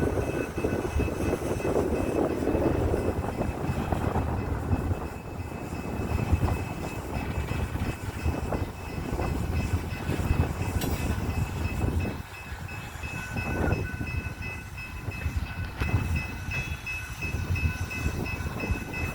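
Coal train's cars rolling on the rails: a steady low rumble with irregular clanks, and faint high steady tones over it.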